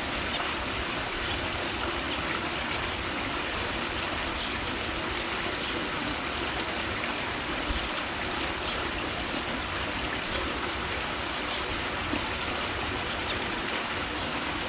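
Steady, even rushing noise with no distinct calls or tones standing out, and a couple of faint ticks.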